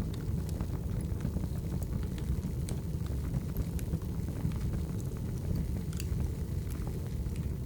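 Wood fire burning: a steady low rumble with scattered sharp crackles and pops of burning firewood.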